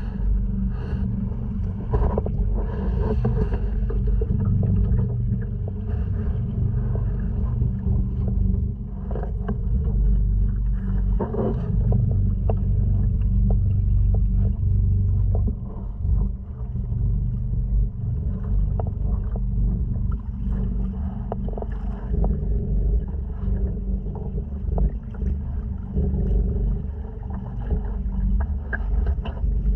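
Honda 2.3 four-stroke outboard running steadily, pushing a sea kayak along, with water splashing against the hull.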